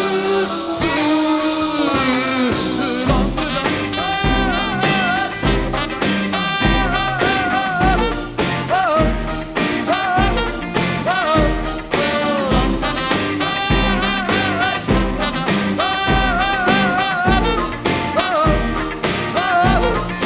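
Rock band playing live: a wordless instrumental break, with a wavering melody line over a steady bass-drum beat that comes in about three seconds in.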